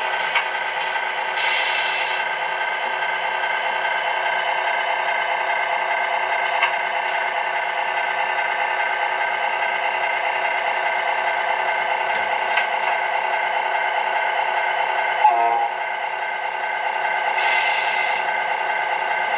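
Tamiya Scania R620 radio-controlled model truck running, its electric motor and gearbox giving a steady whine, with a brief hiss near the start and again near the end.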